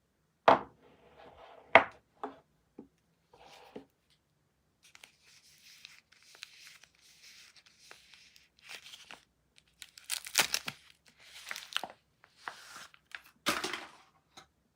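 A soap wrapper being handled and torn open: two sharp taps near the start, then crinkling and rustling, with several loud rips in the second half.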